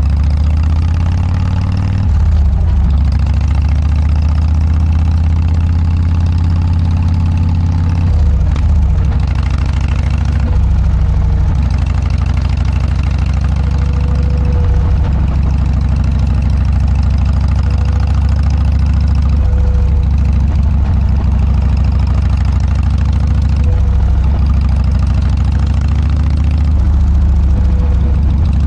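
Harley-Davidson Dyna's air-cooled V-twin running through an aftermarket Motorstage muffler, a loud, deep exhaust note that shifts in pitch several times.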